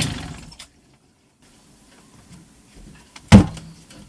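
Inboard marine diesel, freshly bled of air and just started, runs for a moment and then cuts off suddenly about half a second in. It is shut down because it has no raw cooling water for the impeller. About three seconds later comes a single loud clunk.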